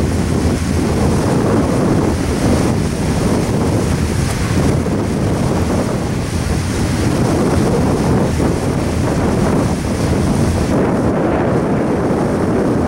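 Double-stack intermodal freight train rolling past over a bridge: a steady, loud rumble of wheels and cars mixed with wind buffeting the microphone.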